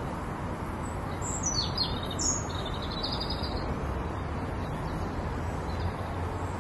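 Small birds chirping: a handful of quick high chirps and a short trill between about one and three seconds in, over a steady outdoor background noise with a low hum.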